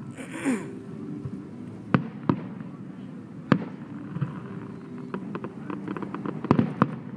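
Aerial fireworks going off: a brief hiss near the start, single sharp bangs about two and three and a half seconds in, a cluster of bangs near the end, and a run of fast crackling in the last couple of seconds.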